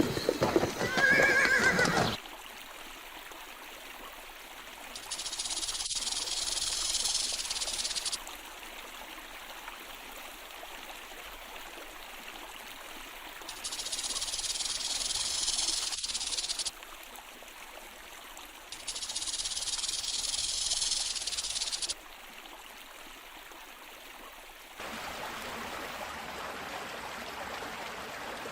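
A horse whinnies at the start. Then come three long, high-pitched hisses of about three seconds each, spaced several seconds apart over a quiet background, and near the end a steady rush of flowing water.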